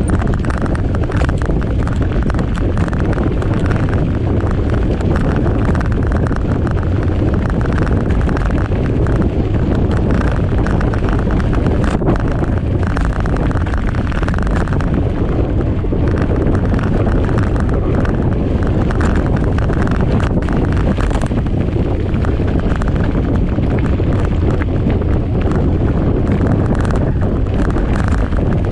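Wind buffeting the microphone of a camera on a moving mountain bike rider, a loud steady rumble, with scattered clicks and rattles from the bike over rough ground.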